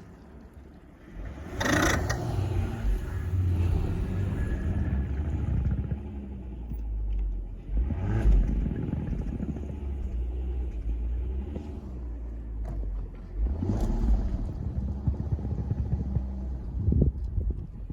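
A car's engine running with a low rumble as the car sits stuck in deep snow. The sound swells louder three times, about 2, 8 and 14 seconds in.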